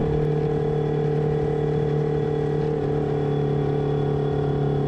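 V-twin motorcycle engine running at a steady cruising speed, with wind and road noise.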